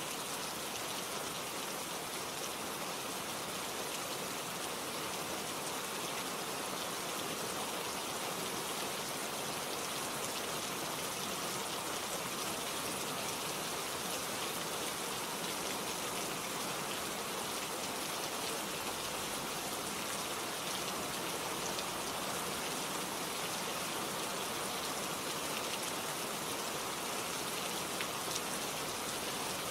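Steady rain falling, with a dense even hiss and fine patter of individual drops striking surfaces close by.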